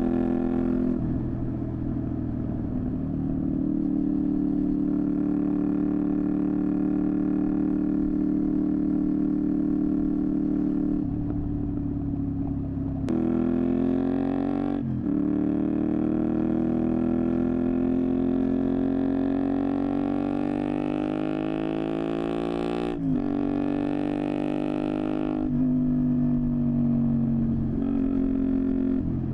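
Honda VTR250's 250 cc V-twin engine through a Moriwaki exhaust, recorded on the moving bike. It holds a steady pace for the first ten seconds or so, then accelerates with rising revs, drops in pitch at two upshifts near the middle and about three-quarters of the way in, and settles to a steadier pace near the end.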